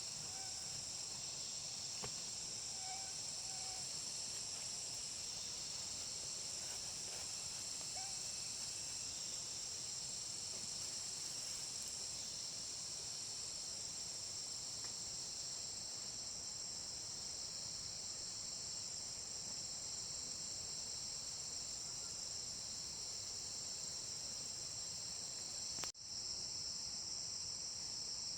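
Steady high-pitched chorus of insects, a continuous shrill buzz that drops out for an instant near the end.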